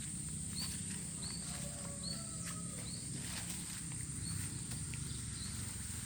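Outdoor nature ambience: a steady high-pitched insect drone and a bird repeating a short chirp about every half second, fading out later, over a low rushing rumble from the flooded river.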